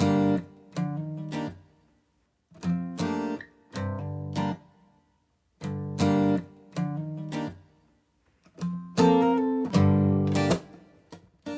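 Background music: acoustic guitar strumming chords, in short phrases broken by brief silent pauses.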